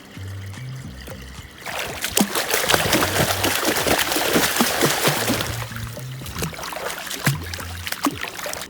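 Water splashing and trickling loudly for about six seconds, starting about two seconds in and fading near the end, over soft background music with a bass line.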